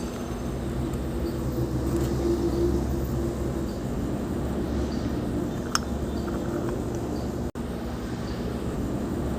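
Small two-stroke brush cutter engine running steadily at idle, with a brief dropout about seven and a half seconds in.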